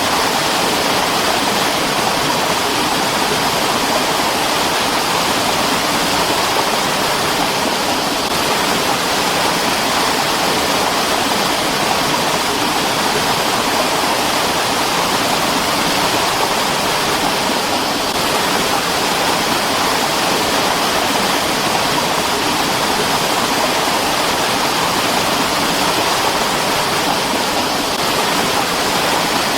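Mountain water stream flowing, a steady, unbroken rush of water.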